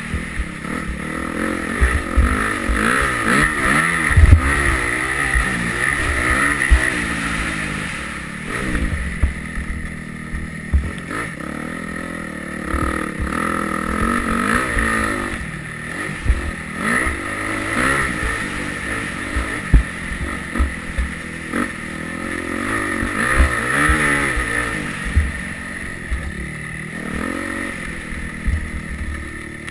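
Yamaha YZ250F four-stroke single-cylinder motocross bike ridden hard, its engine note rising and falling over and over as the throttle is opened and closed, with frequent low thumps.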